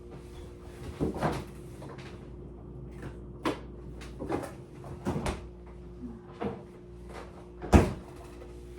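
Household handling sounds: a string of light knocks and clicks, with a louder knock near the end, like cupboard doors being opened and shut. A faint steady hum runs underneath.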